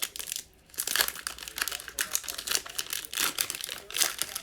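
Plastic wrapping on trading card packs crinkling and tearing as they are opened by hand: a dense run of crackles with a short lull in the first second.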